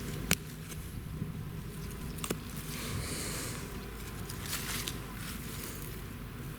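Wood rubbing on wood: irregular scratchy scraping and rustling, with two sharp clicks about two seconds apart.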